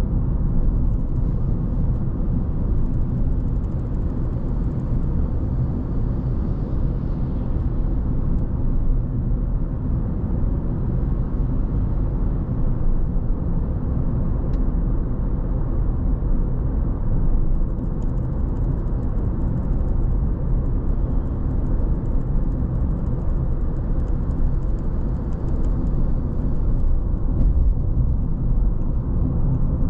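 Car driving at a steady pace: an even, low rumble of road and engine noise with no breaks or distinct events.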